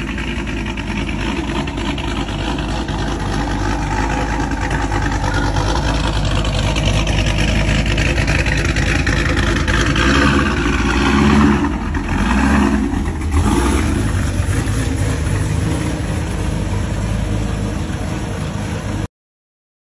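Classic American muscle car's engine running loud through its exhaust, with a few revs about eleven to thirteen seconds in; the sound cuts off abruptly near the end.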